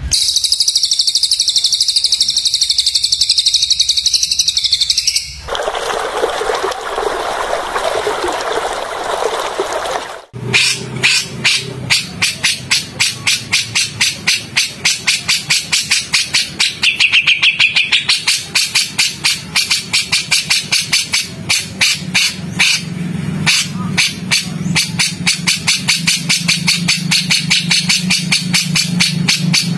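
Edited run of songbird calls used for training: a steady high-pitched trill, cut to about five seconds of rough hissing, then from about ten seconds in a fast harsh chattering call repeated about three or four times a second.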